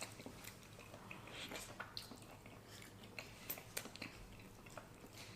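Faint, irregular mouth sounds of a person chewing soft food, cooked ostrich egg and avocado toast, with small wet clicks.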